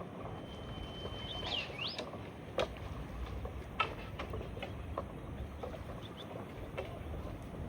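Water lapping and dripping around a bamboo raft, with irregular small splashes and ticks over a low steady rumble. Early on, a thin high whistled note holds for about a second, then turns into a few quick sliding chirps.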